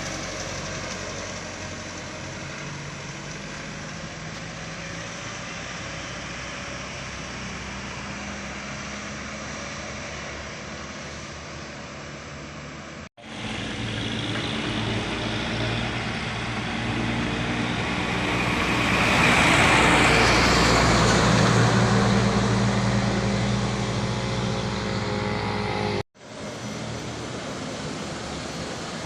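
Heavy diesel truck engines pulling up a steep climb, with traffic noise around them; in the middle stretch one truck grows louder as it passes close, loudest a little past the middle. The sound breaks off sharply twice.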